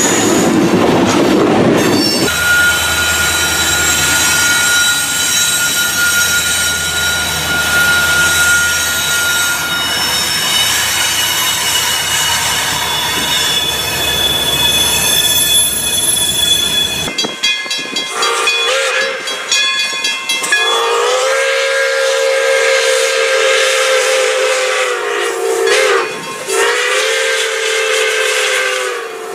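Freight train with CSX diesel locomotives passing, with a low engine hum and a steady high squeal from the wheels. About two thirds of the way in, a steam locomotive's whistle sounds a long chord, breaks off briefly and sounds again near the end.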